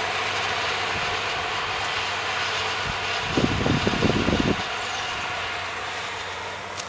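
A milling machine running and cutting with a steady dense noise. About midway there is a louder rough rattle lasting about a second, and the machine sound eases a little toward the end.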